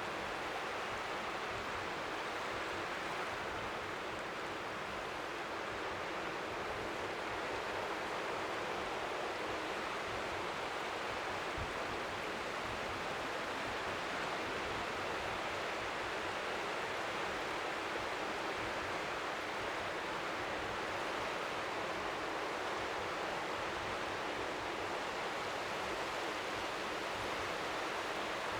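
Strong wind at the seashore making a steady, even hiss, with small waves lapping faintly at the shore underneath.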